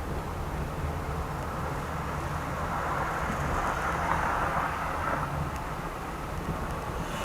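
Steady road and engine noise of a moving car, a low rumble that swells a little for a couple of seconds midway.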